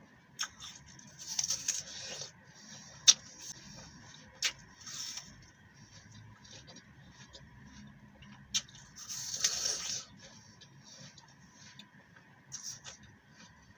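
Close-miked eating sounds of a crisp raw green apple being bitten and chewed: two crunchy bursts about a second long, one near the start and one around the middle, and several sharp single snaps in between.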